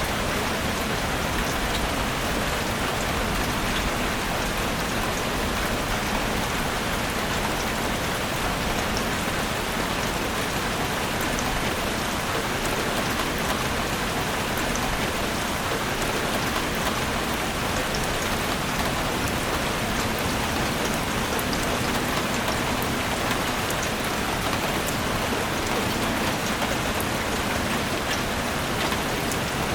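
Steady rain falling on a forest, an even hiss with individual drops pattering on leaves and surfaces.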